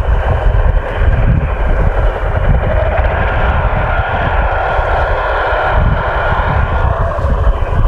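A motor running steadily with a level whining hum, against heavy wind rumbling on the microphone.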